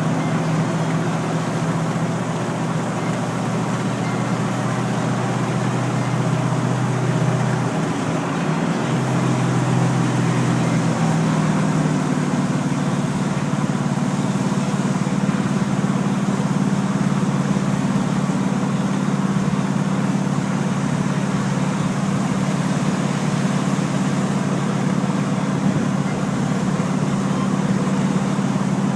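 Duramax turbodiesel truck engine running steadily under way, with road noise. Its engine note changes pitch about ten seconds in and then holds steady.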